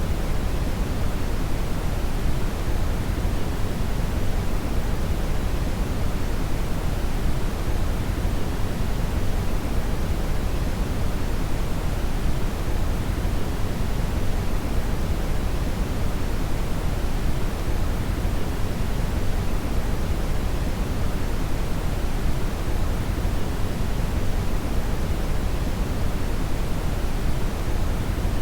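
Steady brown (red) noise, a synthetic hiss weighted heavily toward the low end, constant in level with no change.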